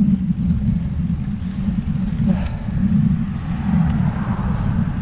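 Steady low rumble of wind buffeting the microphone of a camera riding along on a road bike.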